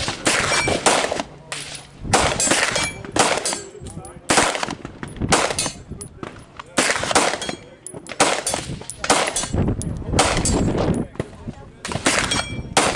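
Gunfire on an outdoor range: many sharp shots from several guns at irregular spacing, some in quick strings, each with a short ringing tail.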